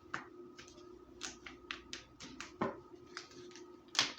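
Irregular light clicks and taps, about a dozen, from hands handling tarot cards as one more card is drawn. A sharper click comes near the end, over a faint steady hum.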